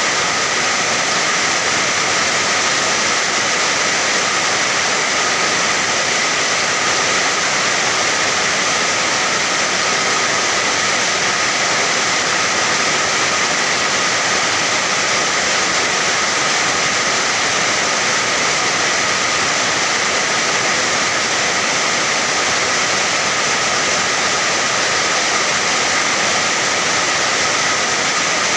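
Steady rainfall: an even, unbroken hiss with no distinct drops or pauses.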